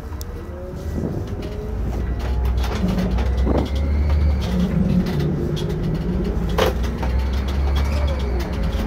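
Irisbus Récréo II coach on the move, heard from the driver's seat. Its engine drone builds over the first few seconds as the coach gathers speed, with faint rising whines and scattered clicks and knocks from the body.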